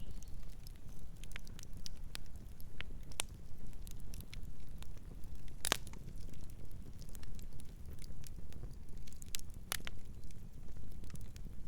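Campfire crackling: irregular sharp pops and snaps over a low steady rumble, with two louder pops about six and ten seconds in.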